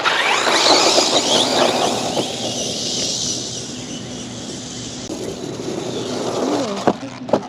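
Electric RC car driving on rough ground: motor whine and tyre and gravel noise, loudest in the first couple of seconds, then running on more steadily. Two sharp knocks near the end.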